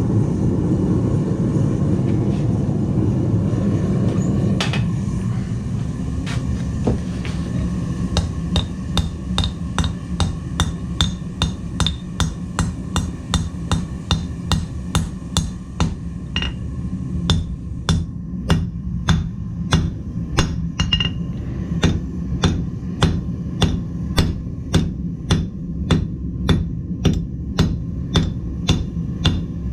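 Blacksmith's hammer striking hot steel on an anvil, steady blows at about two a second, each with a bright ring, starting several seconds in after a brief pause. A steady low rush of the forge fire runs underneath throughout.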